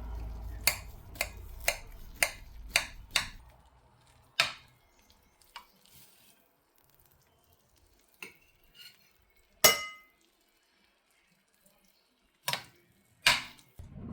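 Metal utensils knocking and clinking against dishes: six quick taps at about two a second, then scattered single knocks. The loudest knock comes about ten seconds in and rings briefly.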